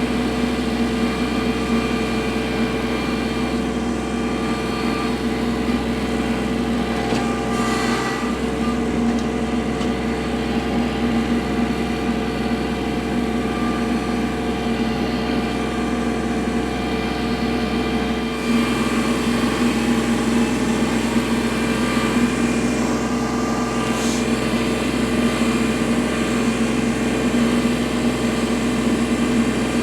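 Kubota L3301 tractor's three-cylinder diesel engine running steadily; it gets a little louder about eighteen seconds in.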